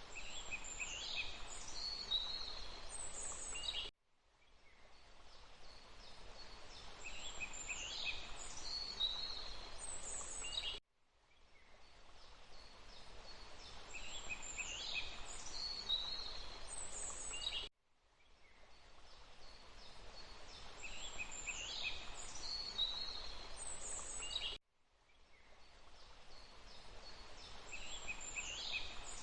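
Forest ambience: a steady soft background noise with a small bird's quick, high chirping phrases. The same stretch of about seven seconds repeats as a loop, each time cutting off abruptly and fading back in.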